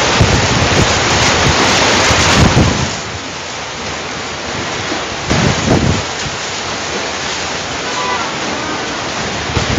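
Heavy rain pouring in a violent windstorm, with gusts buffeting the microphone. The downpour is heaviest for the first two and a half seconds, then settles into a steady loud rush, with another strong gust a little past five seconds.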